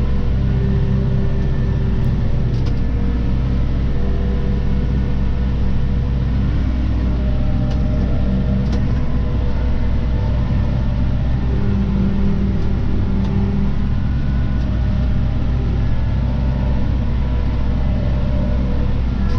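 Claas Arion 530 tractor engine running steadily under load while mowing grass, its pitch shifting slightly now and then.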